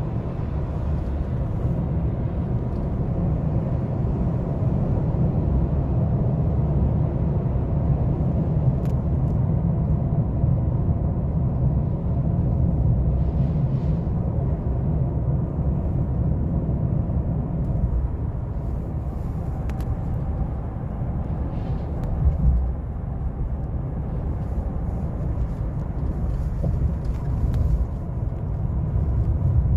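GMC Sierra pickup's 6.2-litre V8 and tyres on the road while driving: a steady low rumble, with one brief louder bump a little past two-thirds of the way through.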